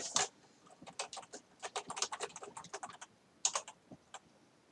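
Typing on a keyboard: quick runs of keystroke clicks that pause briefly near the end.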